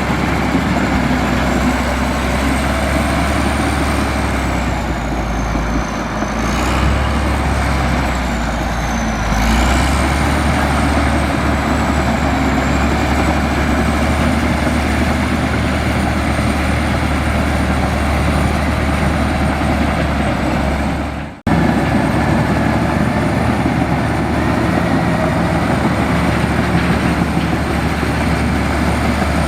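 Heavy diesel engine of a Komatsu bulldozer running steadily under work load, with a thin high whine that dips in pitch twice in the first third. The sound cuts out for an instant about two-thirds of the way through, then carries on.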